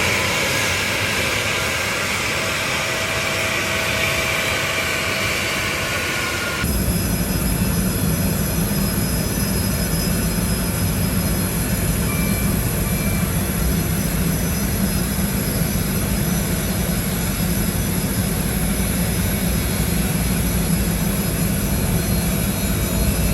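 Jet airliner engines running with a steady whine and rumble. About seven seconds in the sound changes abruptly to a heavier low rumble with several high, steady whines over it.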